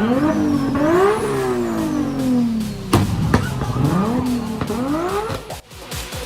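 Car engine revved hard several times, its pitch climbing quickly and then falling away slowly, with two sharp cracks from the exhaust about three seconds in.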